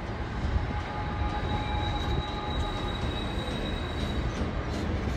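Class 66 diesel freight locomotive approaching along the line: a steady low rumble, with faint steady high tones over it for the first few seconds.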